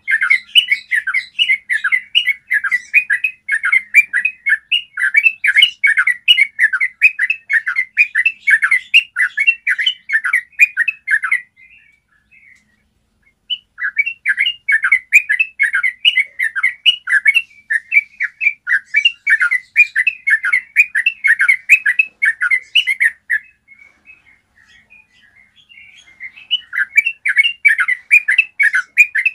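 Yellow-vented bulbul singing its long, rapid rolling song (ropel), a fast run of short sweeping chattering notes. The song comes in three long bouts, broken by short pauses about twelve seconds in and again a few seconds before the end.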